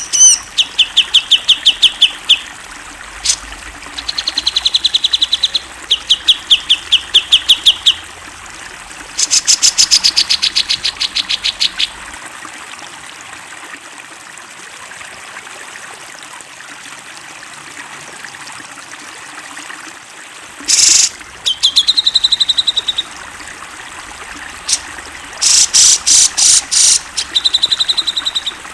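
Cucak jenggot (grey-cheeked bulbul) singing: phrases of rapid repeated notes, some clear and high, some harsh, a second or two long and separated by pauses, with a long gap in the middle. A steady trickling-water hiss runs underneath.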